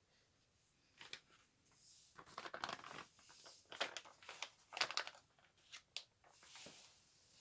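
Crinkling and rustling handling noise in irregular bursts, starting about a second in.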